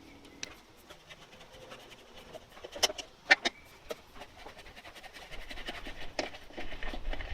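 Hand tool undoing the top two fasteners of an older Victa lawn mower's pull start: scattered small clicks and scrapes of metal on metal, the sharpest a few about three seconds in.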